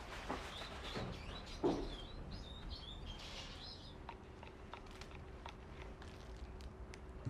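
Small birds chirping in short twittering calls through roughly the first three and a half seconds, with scattered light clicks and a single louder knock.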